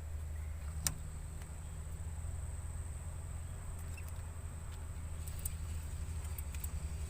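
Steady high-pitched insect drone over a constant low rumble, with a sharp click about a second in and a few lighter clicks near the end.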